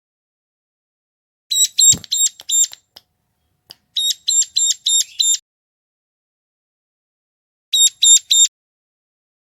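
Ciblek gunung (a prinia) calling in three bursts of sharp, evenly repeated high notes, about three to four notes a second. This is a lure call for attracting wild birds.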